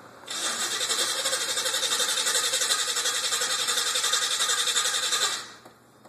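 Chevrolet El Camino's engine being cranked by the starter motor in a hard start: a rhythmic, pulsing cranking for about five seconds that cuts off suddenly without the engine catching.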